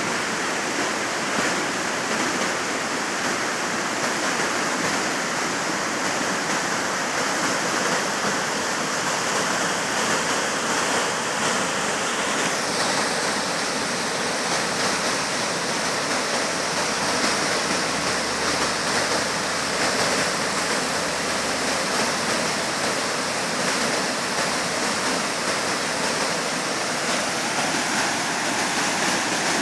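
Waterfall rushing steadily: a continuous wash of falling water, its hiss shifting slightly about twelve seconds in.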